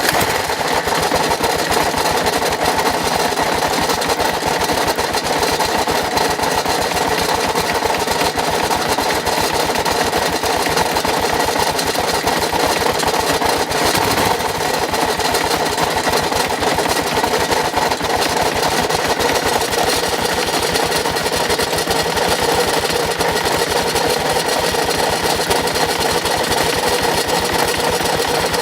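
2006 Kawasaki KLR650's single-cylinder four-stroke engine running steadily with a loud, fast mechanical rattle, a very noisy engine fault that came on suddenly.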